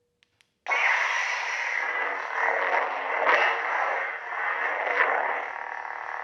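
Xenopixel V3 lightsaber sound board: two faint clicks, then a sudden ignition a little under a second in, followed by a steady, grainy blade hum that swells with swings about three and five seconds in.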